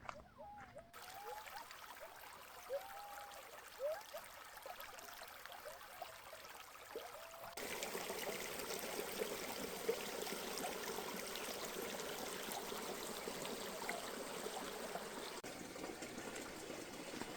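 Water running steadily, like a trickling stream or water pouring into a pool, with short chirping calls over the first half. About seven and a half seconds in it changes abruptly to a louder, fuller rush of water.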